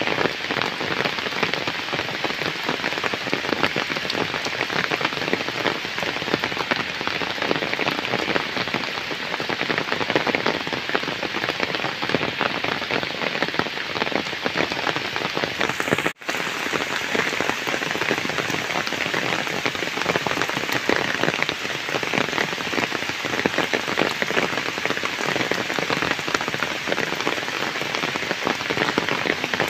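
Heavy rain falling steadily on flooded ground and puddles under trees, a dense, even patter, with a split-second dropout about halfway through.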